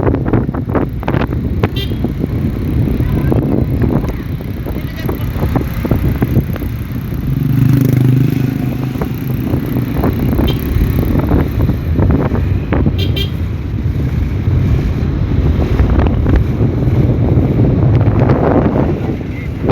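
Strong wind buffeting the microphone in a low rumble, with a vehicle engine running underneath, clearest about eight seconds in.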